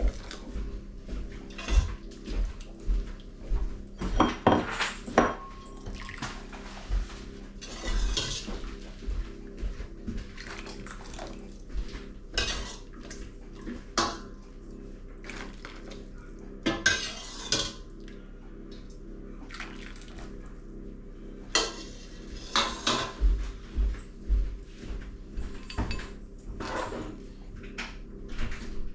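Crockery, pots and metal cutlery clinking and knocking at irregular intervals as soup is served into bowls, over a steady low hum.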